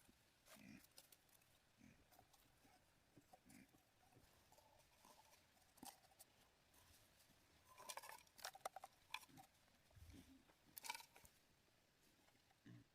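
Near silence with faint, scattered clicks and light knocks, a small cluster of them about eight seconds in and a soft low thump shortly after.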